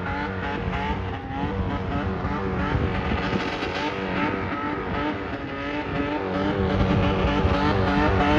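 Nissan 4x4 SUV drifting, its engine revving with the pitch wavering up and down as the throttle is worked, over the noise of spinning tyres. It grows louder over the last couple of seconds.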